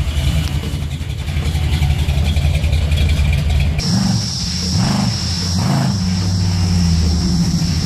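Dodge Charger's V8 engine idling, then, after a cut about four seconds in, the car driving past and revving up several times.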